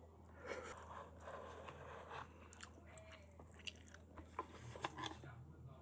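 A person biting and chewing crunchy food close to the microphone, with a run of crisp crackles and crunches.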